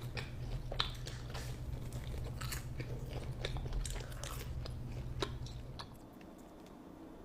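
A person chewing and biting pizza close to the microphone, with crisp crunches and wet mouth clicks. A low background hum under the chewing stops about six seconds in.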